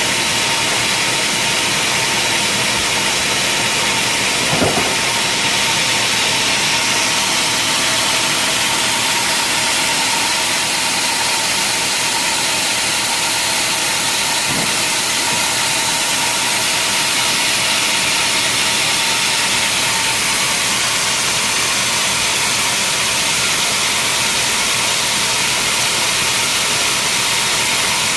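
Sawmill machinery running steadily: an even, hissing noise with a constant whine under it, and a short knock about five seconds in and another about fifteen seconds in.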